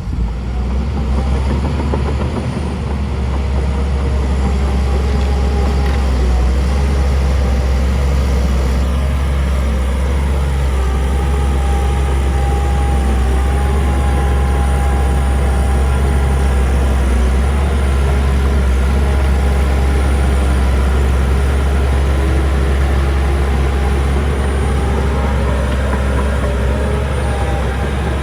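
Heavy diesel construction machinery running steadily: a deep engine rumble with a faint thin whine above it, strongest in the middle.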